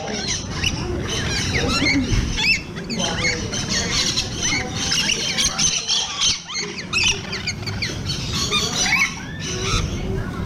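A flock of lorikeets screeching and chattering all at once, many short squawks and squeaks overlapping as the birds squabble over nectar.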